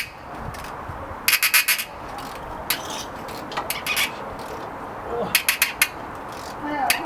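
Socket ratchet clicking as a nut on the motorcycle's exhaust collector box is turned: two short runs of quick clicks, about a second and a half in and again near five and a half seconds, with single clicks between.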